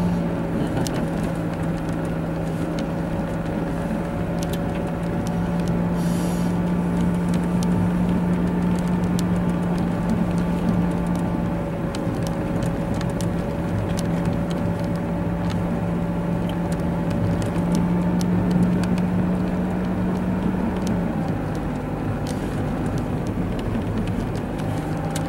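Car engine and tyre noise on a snow-covered road, heard from inside the cabin: a steady low drone that shifts slightly in pitch a couple of times.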